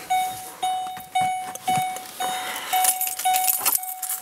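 A Ford vehicle's warning chime dinging evenly about twice a second, with keys jingling between the dings.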